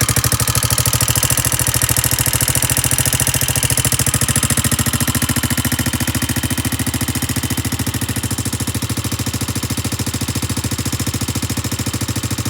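Suzuki GrassTracker BigBoy's single-cylinder four-stroke engine idling steadily with an even, rapid exhaust pulse after start-up.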